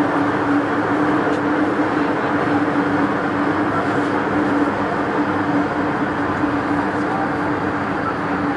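MTR M-train electric multiple unit running at steady speed: continuous rumble of wheels on rail with a steady hum.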